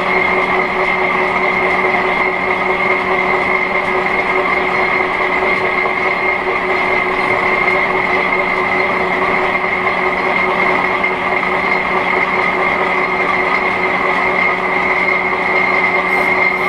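Vintage Hendey metal lathe running in back gear and taking a heavy cut in mild steel with a high-speed-steel chip-breaker tool: a steady mechanical running noise with a constant high tone over it, unchanging in level.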